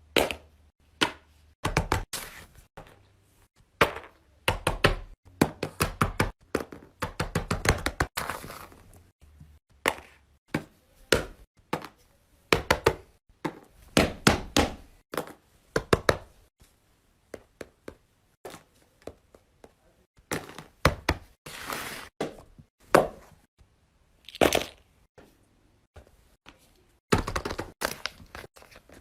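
Fidget toys being handled: irregular taps, clicks and thunks, some coming in quick runs of clicks.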